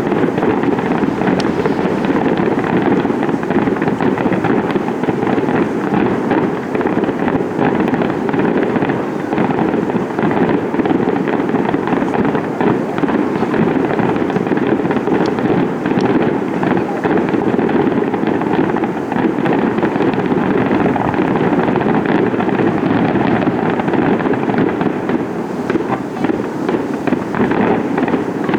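Fireworks display in a full barrage: a dense, unbroken run of shell bursts and crackling that eases slightly near the end.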